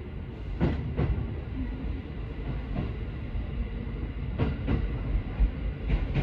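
JR East 205-series electric local train pulling out of a station, heard from inside the carriage: a steady low rumble from the running gear, with wheels clicking over rail joints and points a handful of times, some clicks in quick pairs.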